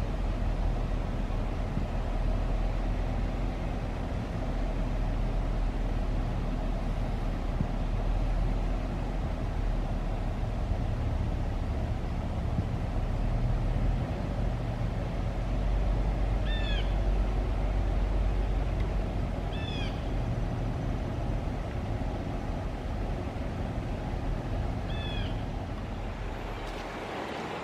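A steady low rumble runs throughout, with a bird giving three short, hooked calls in the second half.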